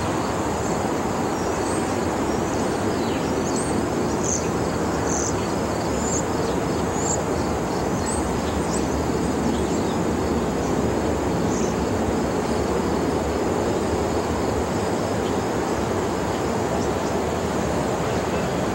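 A SEPTA electric multiple-unit commuter train approaching on the main line, a steady rumble of wheels and running gear as it draws close. Insects chirp over it through roughly the first two thirds.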